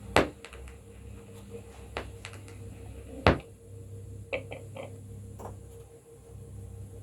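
Record playback after the song ends: a stylus on a 7-inch clear Lexan disc gives a few sharp clicks and pops, the two loudest about three seconds apart, over a steady low hum.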